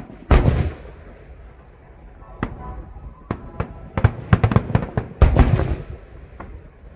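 Aerial fireworks going off: a heavy boom just after the start, then scattered single cracks, then a dense run of bangs and crackles from about four seconds in, loudest around five and a half seconds.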